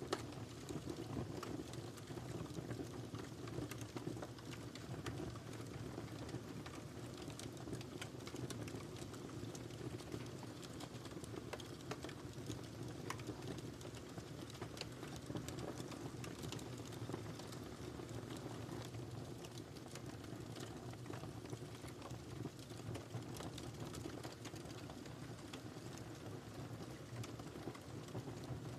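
Wood fire in a fireplace crackling: many small irregular pops and snaps over a steady low rush of the flames.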